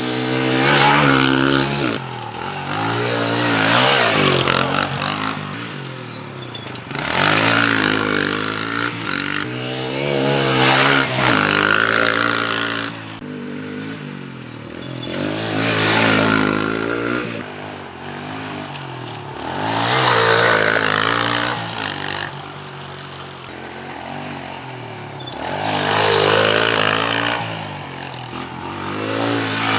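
125 cc air-cooled four-stroke pit bike engine being ridden hard, revving up and easing off over and over. It swells loud and fades roughly every three to five seconds as the bike passes through the turns.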